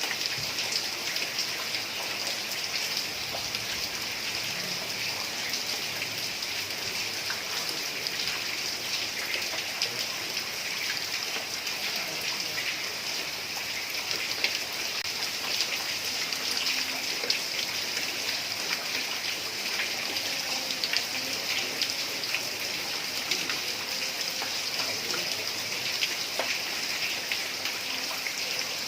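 Heavy rain falling steadily on a tiled roof: an even hiss dotted with the ticks of single drops hitting the tiles.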